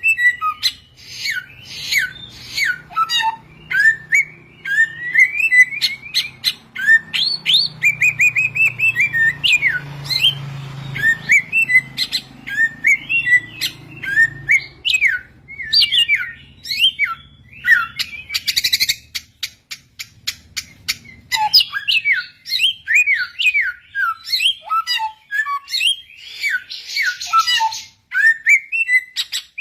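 Samyong bird singing: a rapid, continuous string of chirped and whistled notes with short trills and a few buzzy notes.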